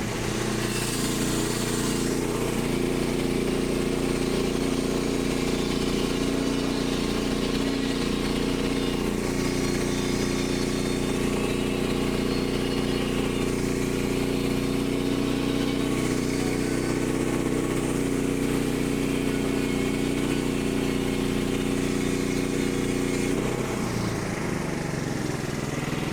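Portable band sawmill's gas engine running steadily at speed while the band blade cuts along a red oak log. About three seconds before the end the engine note drops as the cut finishes.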